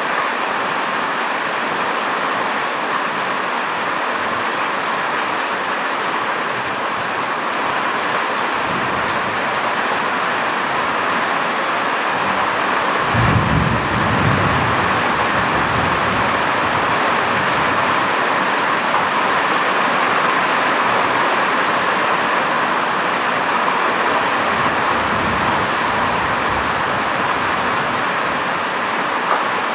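Heavy rain falling steadily, with a low rumble of thunder swelling up about halfway through and dying away after a few seconds.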